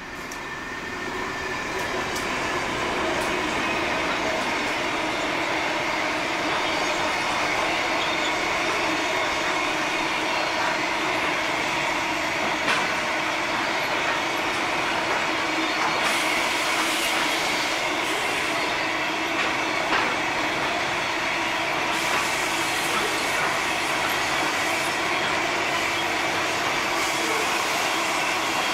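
Loaded container train's wagons rolling past at a fair clip beside a coal train of loaded hopper wagons, the sound building over the first three seconds and then holding steady. Steady wheel squeal rides over the rolling noise, with a few sharp clanks about halfway through and again later.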